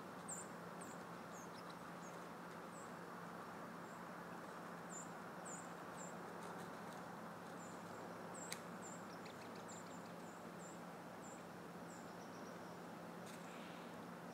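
Small birds giving short, very high, thin chirps, repeated irregularly over a steady hiss, with one sharp click about eight and a half seconds in.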